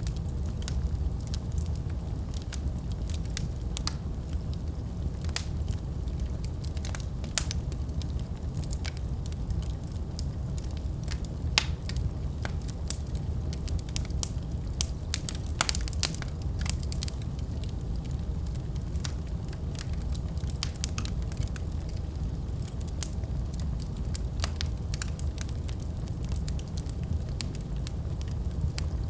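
Wood fire burning in a fireplace: a steady low rumble of flames with frequent irregular crackles and pops, a few sharper ones near the middle.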